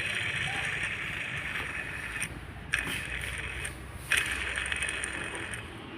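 Worn belt tensioner pulley from a Hyundai i20 diesel, spun by hand three times, each spin a whir that starts sharply. Its failing bearing is the cause of the engine's 'shoo shoo' noise under acceleration.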